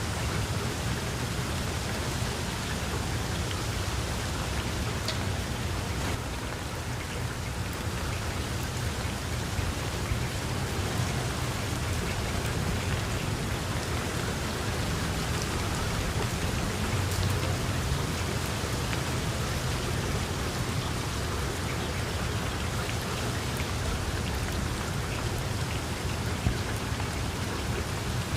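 Heavy rain falling steadily: a dense, even hiss with a steady low rumble underneath and a few sharp drop ticks.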